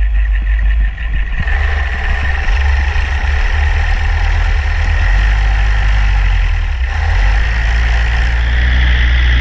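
Paramotor engine running steadily, with wind rumbling on the microphone.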